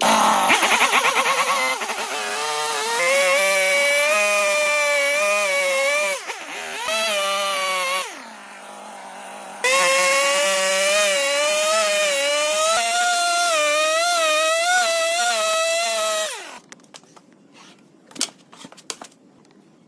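Handheld power tool cutting wood, its motor whine wavering as the load changes. It stops about six seconds in, revs once and dies away, then starts again and cuts off sharply a few seconds before the end, leaving a few faint clicks.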